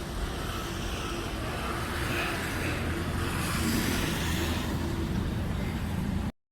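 Road traffic noise with vehicle engines running, steady throughout, cutting off suddenly near the end.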